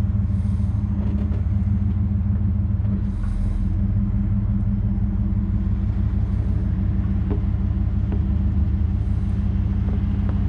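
Pickup truck engine running steadily at low revs as the truck backs up.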